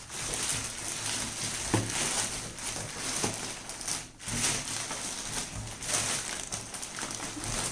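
Rustling and scraping of a microwave oven's plastic wrapping against its cardboard box as the oven is worked loose and lifted out, with a couple of sharp clicks.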